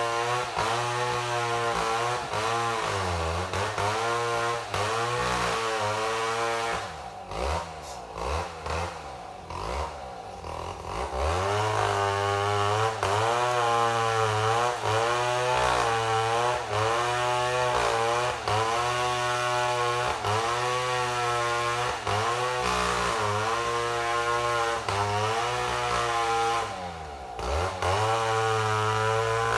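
Chainsaw ripping a mahogany log lengthwise into slabs, running at high revs under load with its pitch wavering. About a quarter of the way in it eases off for a few seconds, then throttles back up into the cut, with another brief dip near the end.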